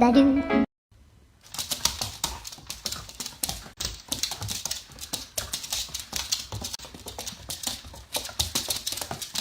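Rapid, irregular clicking and tapping, many small hard strokes in quick succession, starting about a second and a half in. A snatch of music stops just before it.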